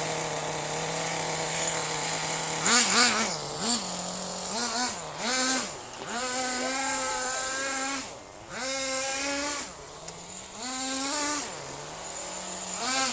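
Small RC buggy engine, running on fuel with castor oil as its lubricant, idling steadily and then revved again and again from about three seconds in: short rising-and-falling blips mixed with a few revs held for about a second.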